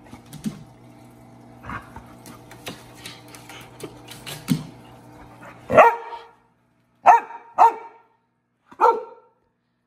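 Labrador puppy's claws tapping and scratching on aquarium glass over a steady low hum, then four short barks in the second half.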